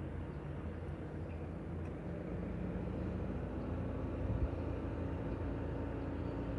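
Steady low rumble, with a faint steady hum joining about three seconds in.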